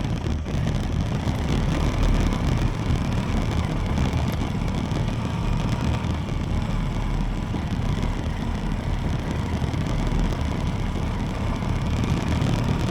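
Haojue NK 150 motorcycle running steadily as it is ridden, with a dense low rumble.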